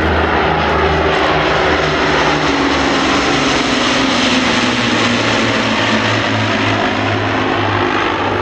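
Avro Lancaster's four piston engines droning loudly and steadily as the bomber flies by, the engine note shifting in pitch partway through.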